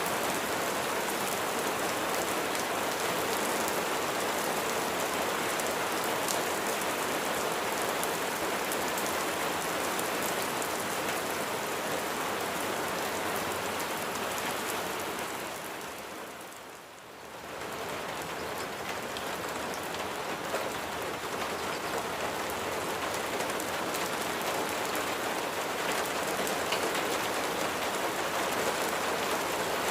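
Steady heavy rain pattering on a surface, a dense even hiss of drops. About halfway through it fades down briefly and comes back up to full.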